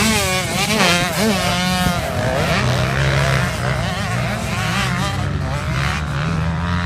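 Motocross bike engines revving, the pitch rising and falling sharply in the first two seconds, then running with a steadier low drone.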